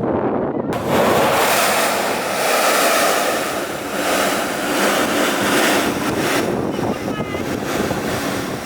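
Sea blowhole erupting: a sudden rush of air and sea spray forced up through holes in the coastal rock, starting about a second in and hissing on for several seconds, with surf behind it.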